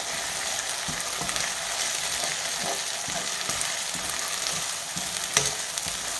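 Sliced onions with ginger-garlic paste and chilli powder sizzling in hot oil in a black kadai, stirred with a slotted steel spatula that scrapes and knocks against the pan, with one sharper knock about five seconds in. This is the masala being sautéed until the raw smell goes and the oil separates.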